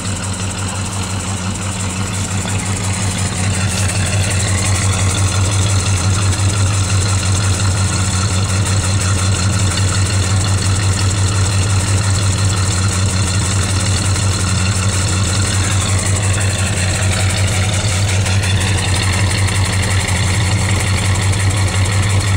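Plymouth Valiant engine idling steadily on a cold start, heard close to the tailpipe, growing slightly louder over the first few seconds. It is still running kind of rich, which the owner puts down to a choke that still needs fine tuning.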